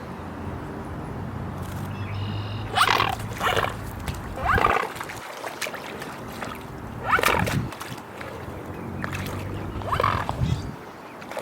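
Loud animal calls: five short cries over about eight seconds, each falling in pitch, over a steady low hum.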